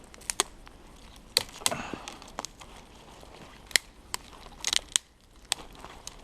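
Scattered sharp cracks and crinkles of something being handled and broken or torn, about a dozen in a few seconds, with the loudest snaps about a second and a half in and near the middle.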